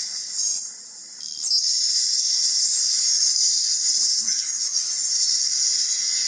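Loud, steady high-pitched hiss of recording noise, with only faint sound beneath it. It drops away briefly about a second in, then returns.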